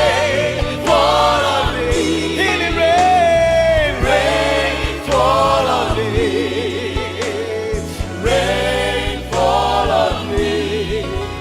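Gospel worship music: a choir and lead singer hold and bend sung notes over keyboard and bass backing.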